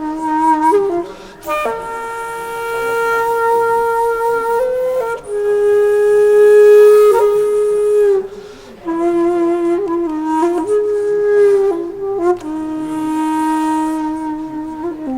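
Background music: a solo flute playing a slow melody of long held notes, sliding between some of them.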